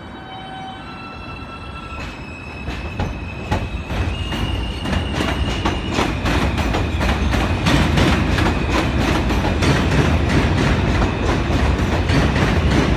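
New York City subway train coming in, growing louder throughout, its wheels clicking over rail joints more and more often, with a steady high whine above the rumble.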